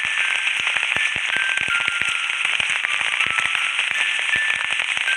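Rain sound effect: a steady hiss of falling rain with many scattered sharp drop clicks, and a few short, quiet high notes that step downward over it.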